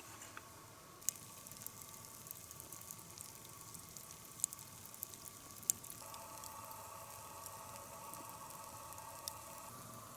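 Faint campfire crackling: a few sharp snaps and pops over a low steady hiss, with a faint steady tone joining about six seconds in.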